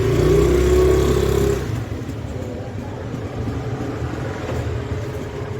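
A motor vehicle passing close by, loud for about the first second and a half with a slightly rising engine note, then fading into steady background traffic noise.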